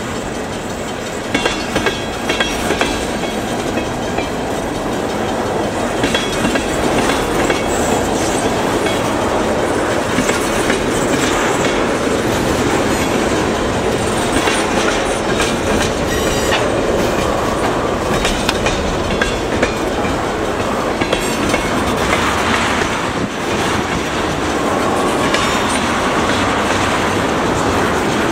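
Freight cars of a mixed freight, mostly tank cars, rolling steadily past close by, their wheels clattering rhythmically over the rail joints.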